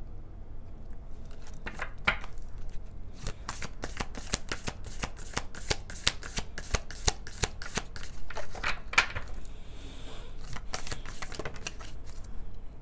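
A deck of tarot cards being shuffled by hand: a fast run of crisp card clicks and flicks lasting several seconds, thinning out near the end.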